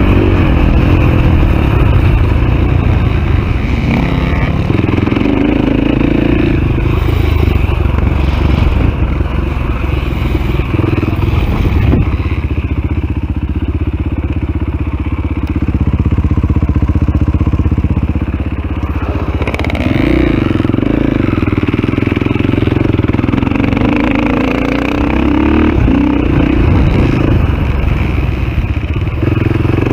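Off-road motorcycle engine at race pace, heard from on the bike, its revs climbing and dropping again and again as the throttle opens and closes. A lower, steadier stretch runs through the middle.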